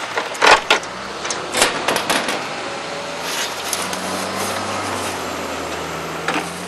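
Sandbagging work: several sharp scrapes and thuds in the first two seconds, like shovels in sand and bags being dropped. After that a steady low engine hum runs under outdoor noise.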